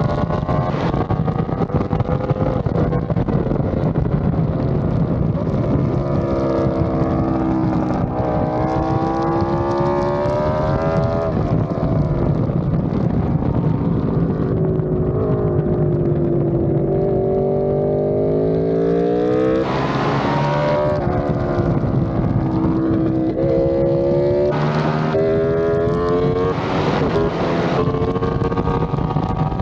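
An Aprilia RSV4 sportbike's V4 engine at track speed. The revs climb and fall repeatedly with gear changes and throttle through the corners, over a steady rush of wind on the microphone. There are a few brief surges of wind noise in the last third.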